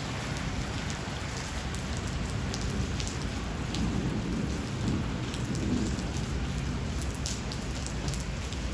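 Steady rain with many individual drops striking a surface, over a low rumble of thunder that swells briefly midway.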